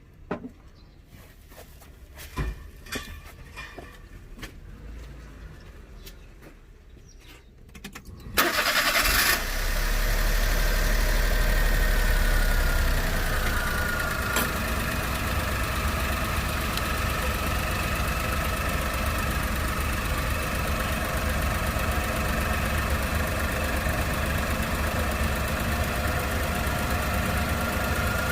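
A few faint clicks, then about eight seconds in the Honda Vamos's small three-cylinder engine is cranked and starts. It settles into a steady idle that drops slightly a few seconds after starting.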